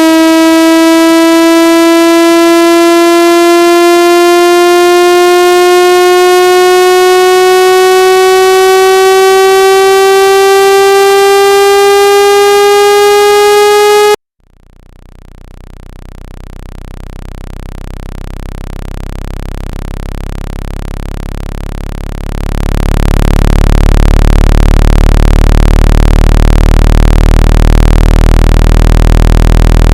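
Synthesized speaker water-ejection tones. First comes a loud buzzy tone that sweeps slowly upward in pitch and cuts off suddenly about halfway through. After a moment's gap, a low buzzing tone fades in, then jumps louder about eight seconds later.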